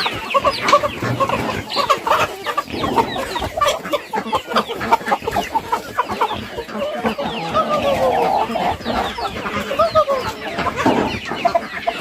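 A flock of chickens clucking, many short overlapping calls at once.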